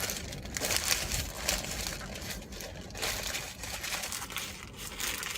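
Paper food wrapper crinkling and rustling close to the microphone, a continuous crackly rustle that stops suddenly at the end.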